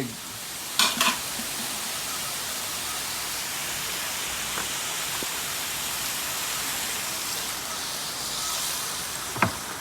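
Steady hissing of a hot pan of stir-fried pork and vegetables just after water is poured in. A short clack about a second in and another near the end.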